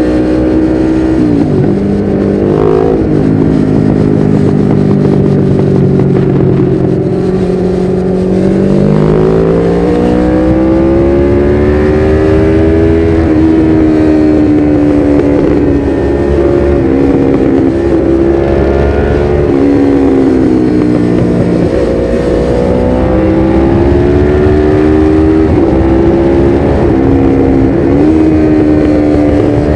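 1993 Suzuki GS500E's air-cooled parallel-twin engine running through a Takkoni slip-on exhaust with its dB killer fitted, under way. The engine note falls several times, about a second in, near eight seconds, near sixteen and near twenty-two, and climbs again after each as the rider rolls off and back on the throttle and changes gear, with a low rumble of wind and road beneath.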